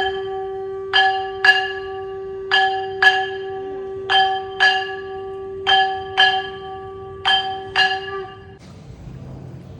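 A single-pitched bell struck in pairs, two strikes about half a second apart, the pairs repeating about every 1.6 s over one steady held tone. Both stop near the end.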